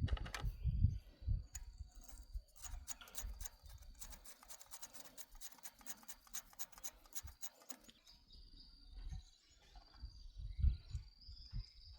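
Rapid scraping or rubbing strokes, quick and close together, with a few low knocks near the start and again near the end.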